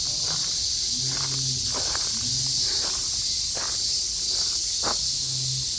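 Dense, steady chorus of cicadas, with footsteps on a path about once a second.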